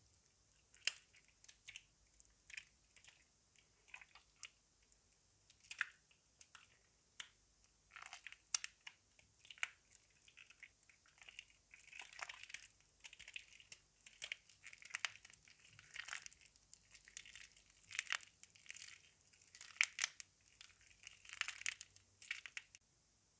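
Soaked laundry soap being squished and crushed: irregular soft, wet crackles and squelches, sparse at first and busier from about eight seconds in.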